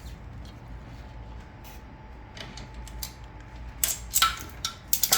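Metal clinks and knocks from a motorcycle's stock exhaust muffler being worked free and taken down, a few sharp clinks close together near the end, over a low steady hum.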